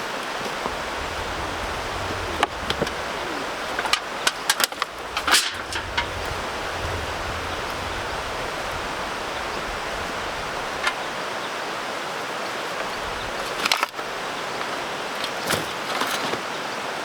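Steady outdoor hiss with scattered sharp clicks and knocks, clustered a few seconds in and again near the end.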